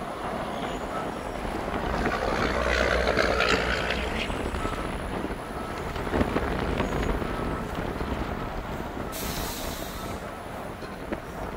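Ford F-550's 6.7-litre Power Stroke diesel running with the PTO engaged to power the bucket truck's hydraulic boom. It swells louder about two to four seconds in, with a sharp knock near the middle and a brief hiss near the end.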